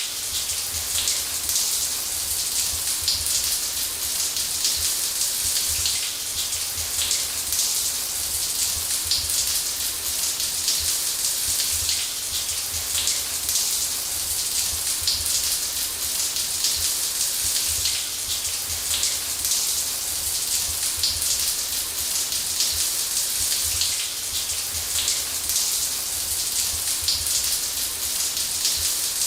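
Running shower: a steady hiss of water spray pattering down, with a faint low rumble beneath.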